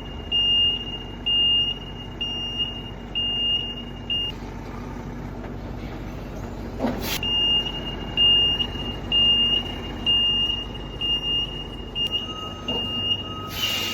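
Truck's reversing alarm beeping at an even pace, just under two beeps a second, over the low running of its engine while it backs up. The beeping stops for about three seconds in the middle, broken by a sharp click, then starts again.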